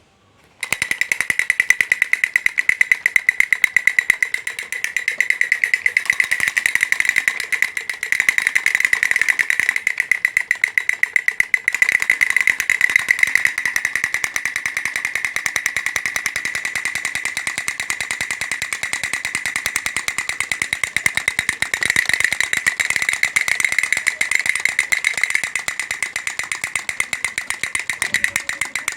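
Battery-operated toy running: its small motor and gears make a fast, steady clicking with a high-pitched whine, starting about half a second in.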